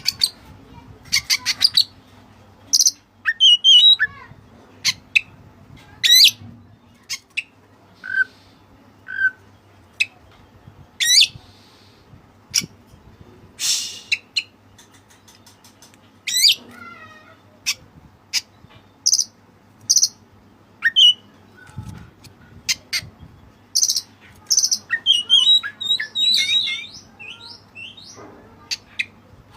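White-breasted oriental magpie-robin (kacer) singing in loud, separate bursts of sharp whistles, quick chips and scratchy notes with short pauses between, running into a denser stretch near the end; its song carries phrases learned from the cililin.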